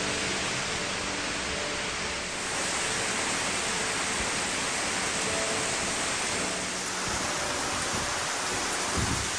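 Heavy rain falling steadily as a dense, even hiss, growing a little heavier about two and a half seconds in.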